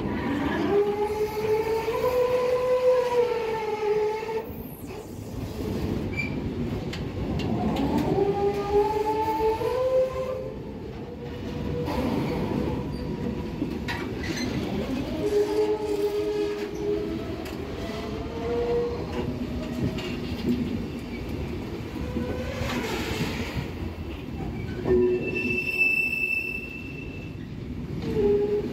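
Container train rolling slowly over the rails, its wheels squealing on the curves in wavering, shifting tones over a steady rumble. A short, high-pitched squeal comes near the end.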